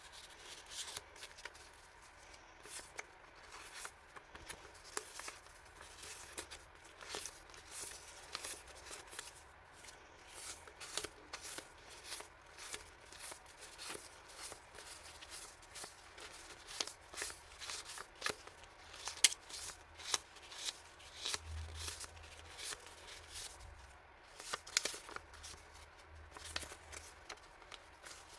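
Hands handling and rustling packaging and paper stationery items, with a run of short crinkles and light taps and small pauses between them.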